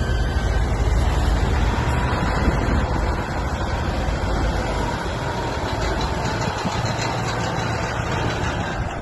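A vehicle engine running at idle: a steady low rumble that eases off about halfway through.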